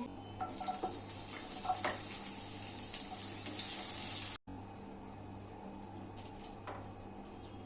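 Steady hissing noise with a low hum under it. It breaks off abruptly a little over four seconds in, and a quieter steady hiss carries on.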